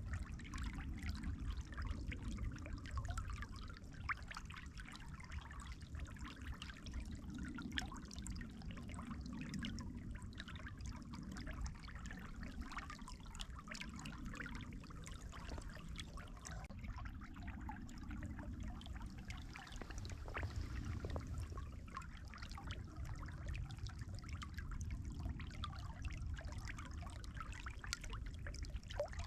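Running water, a steady trickling and babbling flow, with a low rumble underneath.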